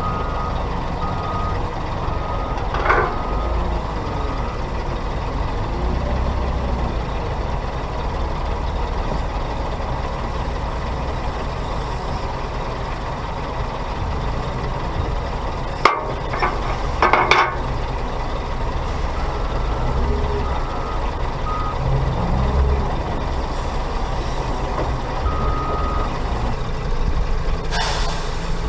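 Heavy diesel engines of the tipper truck and wheel loader running steadily. A reversing alarm beeps in short runs at the start, again past the middle and near the end. A few brief, sharp bursts of noise come through as well.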